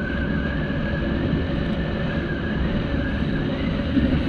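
Yamaha Aerox scooter running at riding speed: a steady low engine and road rumble with a high whine that wavers slightly.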